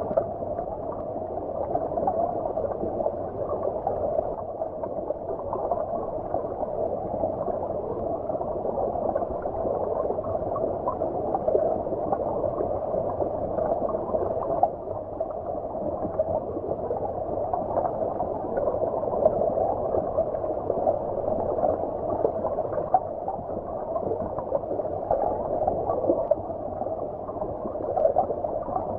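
Shallow stream water heard underwater: a steady, muffled gurgling and bubbling with no bright splash or hiss on top.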